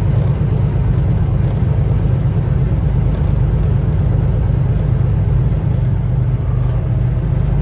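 Semi-truck driving at highway speed: a steady low drone of engine and road noise.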